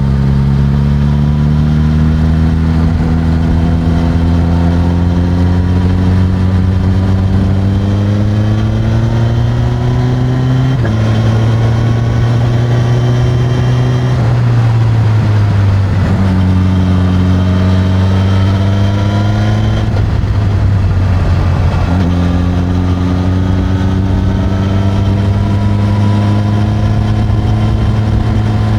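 Suzuki GSX-S1000's inline-four engine through its stock exhaust, heard while riding. The pitch climbs slowly for about ten seconds, then rises and drops several more times as the revs change with the gears.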